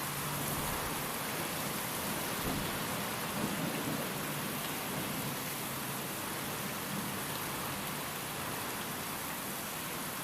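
Steady rain and wind, an even hiss, with a low rumble of distant thunder about three to five seconds in.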